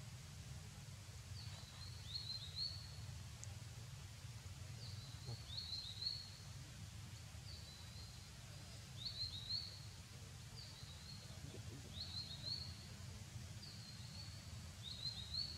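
A bird singing, repeating a short high chirping phrase six times, roughly every two to three seconds, over a steady low background rumble.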